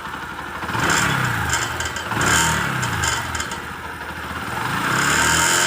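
Bajaj Discover 100's single-cylinder engine revved three times, rising and falling. With each rev a noise comes from the silencer, and it is there only under throttle. The mechanic traces it to a pipe that has come loose inside the muffler.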